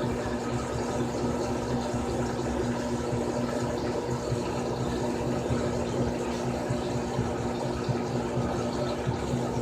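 Frigidaire Gallery Series top-load washing machine (model FWS777GH50) running: a steady motor hum with water noise underneath.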